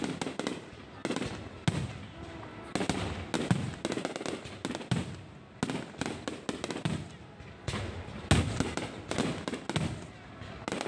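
Low-altitude fireworks going off in a quick, irregular series of bangs, a few each second, each followed by a short echo.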